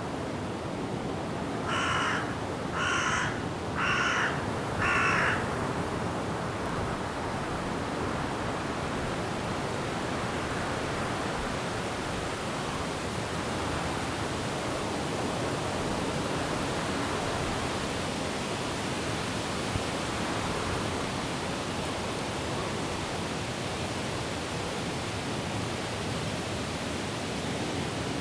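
Steady rushing of wind through forest trees, with a bird calling four times about a second apart near the start.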